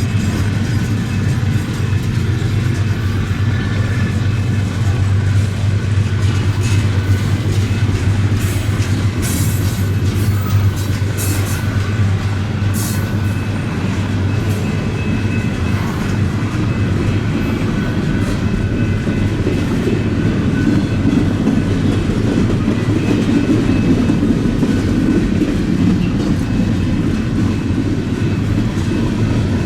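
Freight train rolling slowly past at close range: a steady low rumble and hum, with wheel clicks over the rail joints and a few sharper clicks about a third of the way through.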